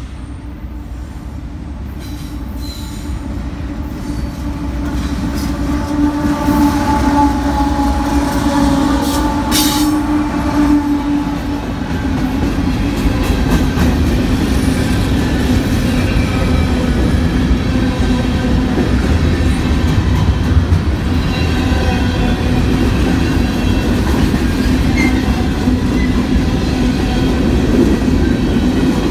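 Union Pacific diesel freight train approaching and passing: the locomotives' sound grows over the first several seconds and goes by about ten seconds in. After that the freight cars' wheels run loudly and steadily over the rails, with a faint squeal.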